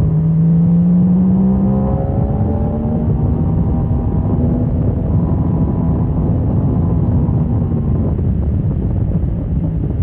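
Motorcycle engine accelerating hard, rising in pitch and dropping at an upshift about two seconds in, then pulling up again before holding steadier, under a heavy rush of wind noise.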